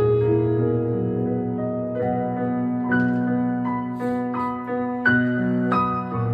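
Yamaha MX61 synthesizer being played on a keyboard voice: chords held underneath while a slow melody of single notes enters above them, a new note about every half second to a second.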